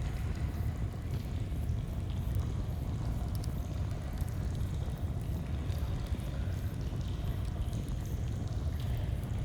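Steady low rush of flowing stream water, with faint scattered crackles of a campfire over it.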